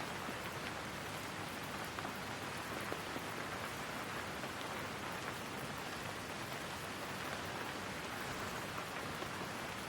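Steady rain falling, an even hiss with the odd louder drop.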